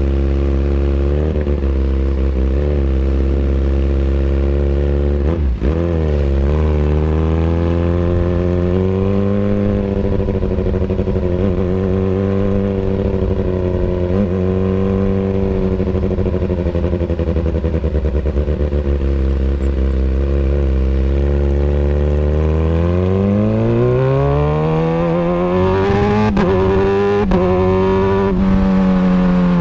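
Kawasaki Ninja ZX-636 inline-four through an Austin Racing exhaust, running at a steady low speed with a few short throttle blips. Near the end the engine speed climbs smoothly, holds high and wavering for a couple of seconds, then eases off.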